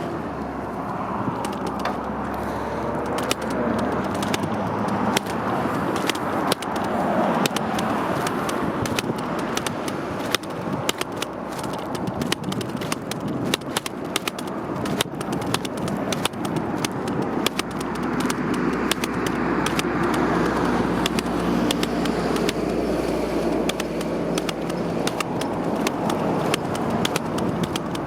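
Riding noise picked up on a moving bike: a steady rush of wind and road rumble with a constant stream of sharp clicks and rattles, like a mount or loose parts shaking over rough pavement.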